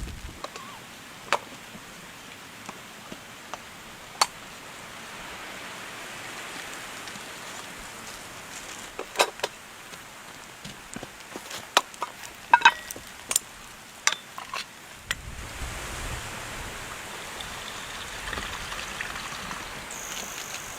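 Steady rain hiss, with scattered sharp clicks and snaps, bunched in the middle. About fifteen seconds in, a low rumble joins.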